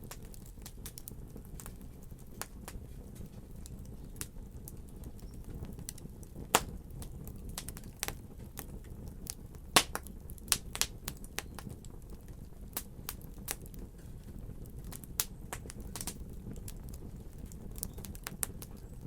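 Fire crackling: irregular sharp pops and snaps over a steady low rumble, the loudest pops about six and a half and ten seconds in.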